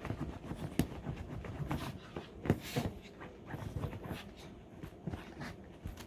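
A dog rubbing and rolling itself about to dry its freshly bathed fur: irregular scuffling and rubbing with scattered knocks, the sharpest about two and a half seconds in.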